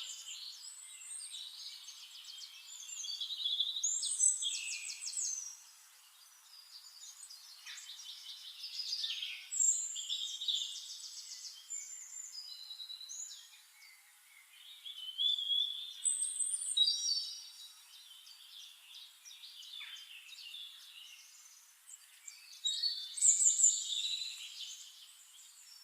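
Several birds singing and calling at once: high, overlapping chirps and trills that come in bursts every few seconds.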